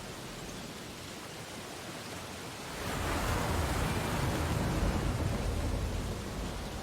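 Ocean waves breaking on a beach: a steady wash of surf, with one wave swelling up about halfway through and easing off again near the end.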